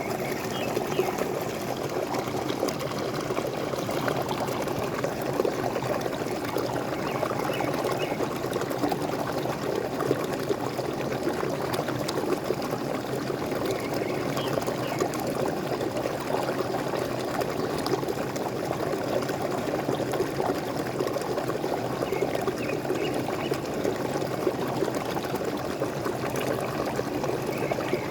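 Waterfall: a steady, unbroken rush of falling, splashing water, with a few faint short bird chirps scattered through it.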